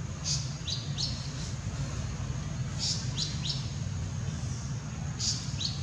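A songbird singing a short phrase of a few quick, high, falling notes, repeated three times about two and a half seconds apart, over a steady low background rumble.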